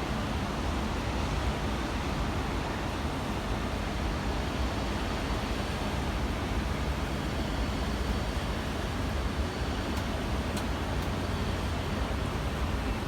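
Steady outdoor background noise: a continuous low rumble with an even hiss over it, unchanging throughout, with a few faint high ticks about ten seconds in.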